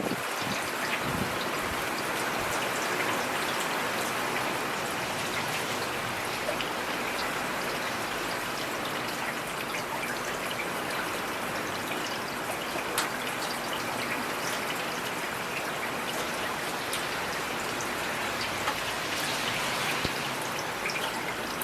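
Heavy rain falling steadily, a dense hiss of drops with scattered sharper drop ticks.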